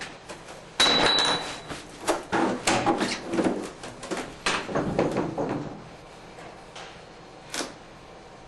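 A run of sharp knocks, scrapes and rattles of hard objects being handled, with a brief high metallic ring about a second in and one last knock near the end.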